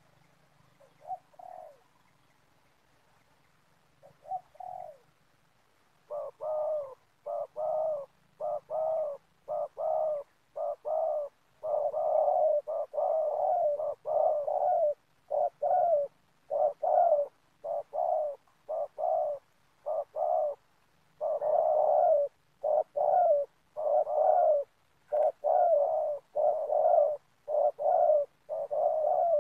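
Spotted dove cooing: a couple of faint notes early, then from about six seconds in a long, closely spaced series of loud repeated coos with short gaps between them.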